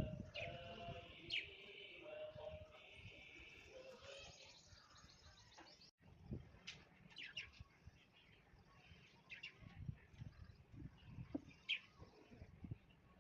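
Birds chirping: a dense run of chirps for the first half, a brief gap about six seconds in, then scattered short chirps.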